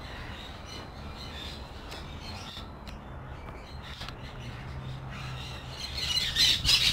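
Caged birds squawking with scattered short calls, growing to a loud, shrill racket near the end, over a low steady hum.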